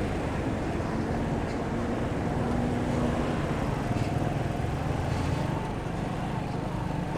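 Motorcycle running while riding, its engine hum mixed with steady road and wind noise.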